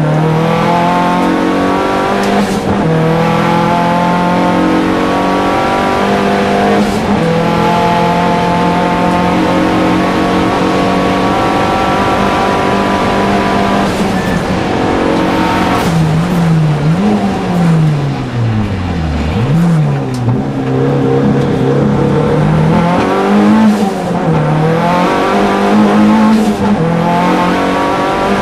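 Opel Calibra Turbo hillclimb race car's turbocharged engine heard inside the cabin at full throttle, revs held high with short breaks at gear changes. About two-thirds of the way through, the revs dip and climb back twice, the second time dropping low, before the engine returns to full power.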